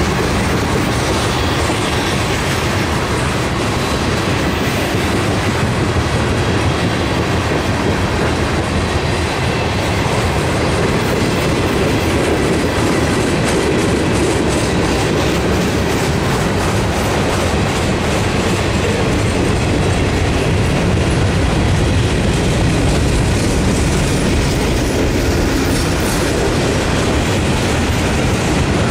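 Freight cars of a mixed freight train, mostly tank cars, rolling past: a steady rumble of steel wheels on rail with a running clickety-clack of wheels over rail joints.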